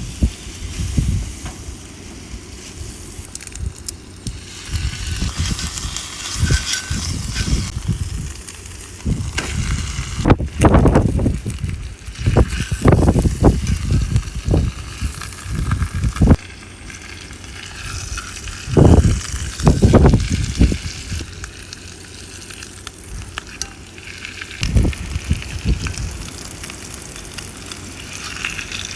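Steak sizzling in an iron skillet, with strong gusts of wind buffeting the microphone in loud, irregular low rumbles.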